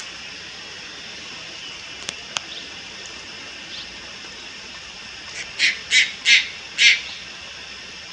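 Juvenile Malayan night heron giving a run of about five harsh, rasping calls in quick succession, roughly a third of a second apart, in the second half, over a steady high hiss. Two faint clicks come about two seconds in.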